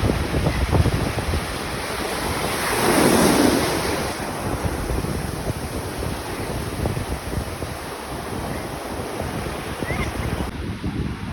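Wind buffeting the microphone over the rush of surf, with a wave swelling and washing in about three seconds in.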